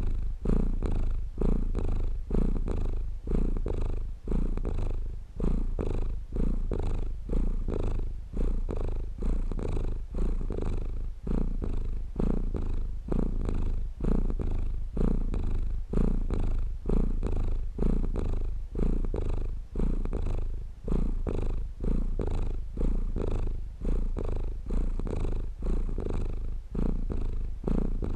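A domestic cat purring steadily, the purr swelling and dipping with each breath about once a second.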